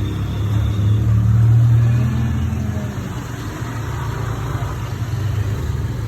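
A motor engine running steadily with a low hum that grows louder about a second and a half in, then eases off.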